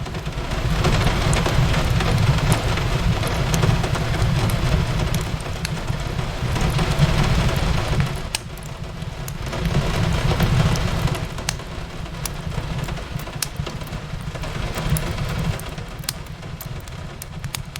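Steady rain on a window over a low rumble, mixed with the small crackles and pops of a wood fire scattered throughout. The rain swells and eases a little, dipping about eight seconds in before building again.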